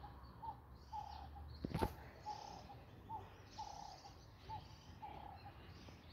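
A bird calling faintly with a short note repeated about twice a second, some notes longer than others, while other birds chirp faintly higher up. A single sharp click comes a little under two seconds in.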